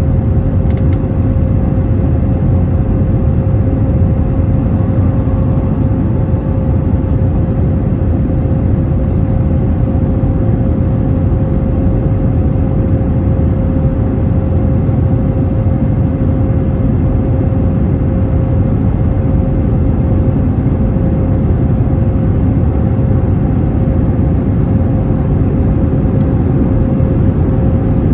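Airbus A321neo's jet engines running steadily, a constant loud rumble with a steady hum tone running through it.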